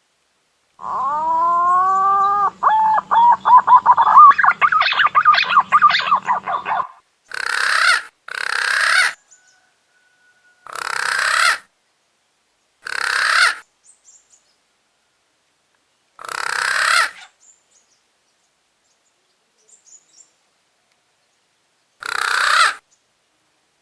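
Punai daun green pigeon calls played as a lure: a long whistled call about a second in, sliding in pitch and then breaking into a fast warbling run of notes, followed by six shorter, harsher calls about a second each, spaced a few seconds apart.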